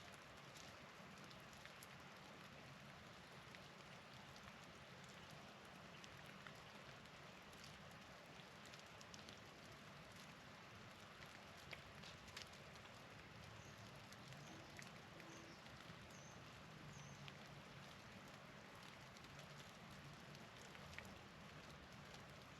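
Faint steady hiss of wet precipitation falling, with scattered light ticks of drops pattering. A few faint, high, short bird chirps come about two-thirds of the way through.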